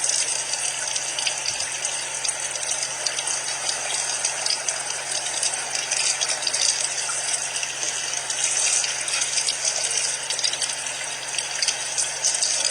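Shower water running in a steady spray.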